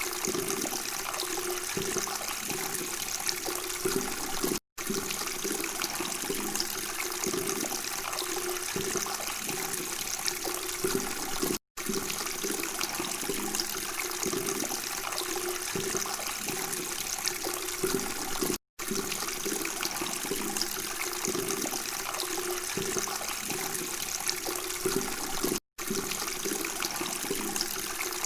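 Babbling, trickling water running steadily, broken by a brief silent gap about every seven seconds.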